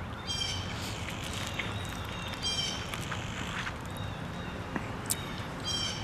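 A few short bird calls over a steady outdoor hum, with one sharp click near the end.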